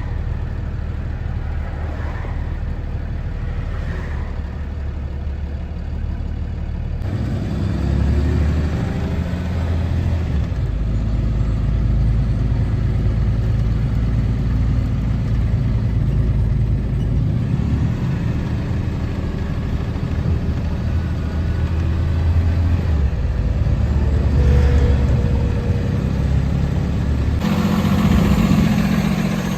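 A box truck's engine and road noise as it is driven, the engine note rising and falling with speed. The sound changes abruptly about seven seconds in and again near the end.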